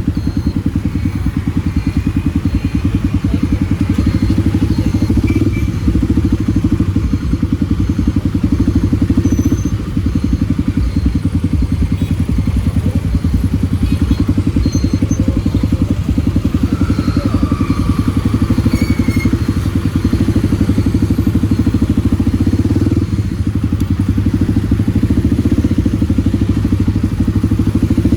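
Kawasaki D-Tracker 250's single-cylinder four-stroke engine running steadily under way through a White Brothers aftermarket exhaust, its level dipping briefly twice.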